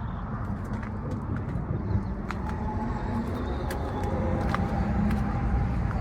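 Motor-vehicle noise: a steady low rumble, with a few sharp clicks.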